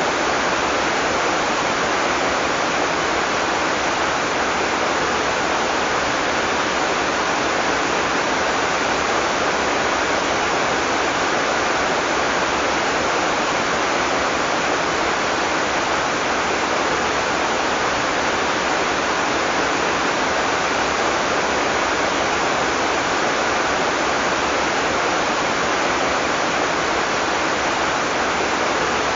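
Heavy rain falling steadily, a dense, even hiss that does not change.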